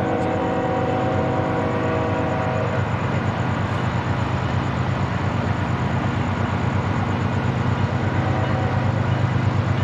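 Diesel freight locomotive passing, its air horn sounding a chord that cuts off about three seconds in. The engine's low rumble and the noise of the rolling train carry on and grow a little louder near the end.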